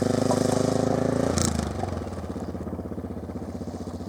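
Motorcycle engine running with a pulsing exhaust note. It is louder for about the first second and a half, then drops to a lower, steadier level after a single sharp clack.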